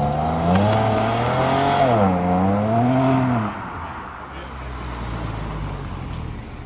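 A sports car's engine revving up and down several times as it pulls away. About three and a half seconds in, the sound drops to a lower, fainter engine rumble.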